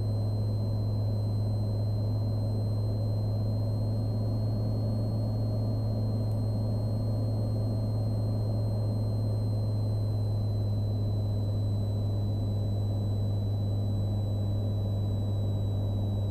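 Cessna Skylane's piston engine and propeller droning steadily in the cockpit in flight, a constant low hum with a faint steady high-pitched whine above it.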